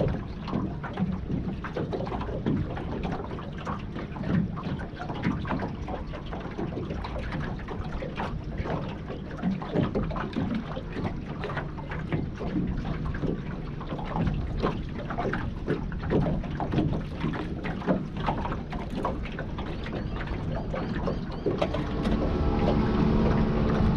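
Wind buffeting the microphone in uneven gusts, with a rumble low down. About 22 seconds in, a steady engine hum with several even tones comes up and grows louder.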